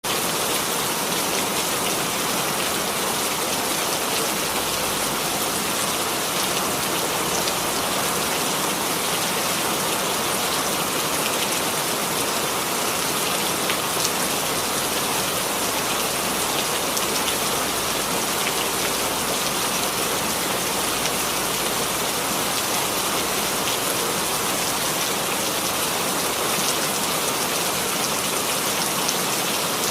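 Steady rain falling on a surface, an even hiss with scattered droplet ticks.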